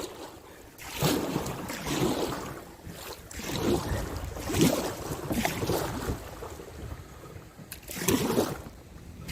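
Kayak paddle dipping and splashing in river water, stroke after stroke, with swells of splashing about every second or so. Wind buffets the microphone underneath.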